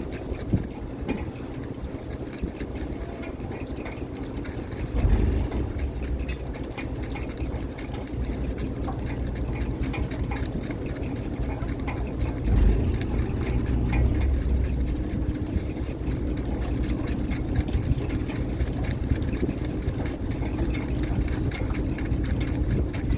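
Fishing boat's engine running steadily with a low, even hum. Louder low thumps come about five seconds in and again about halfway through.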